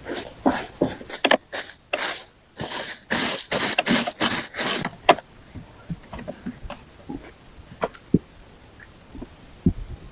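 A quick series of rough scraping strokes for about five seconds, then a few scattered light clicks and knocks.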